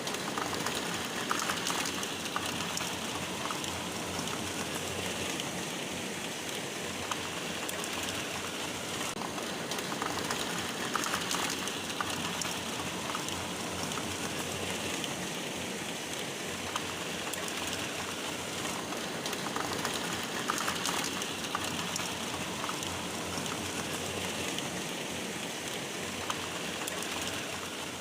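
Rain falling steadily, with scattered sharper drop hits.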